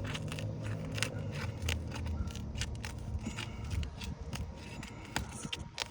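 Asphalt shingle's adhesive seal strip crackling and snapping in quick, irregular clicks as it is pried apart from the shingle above.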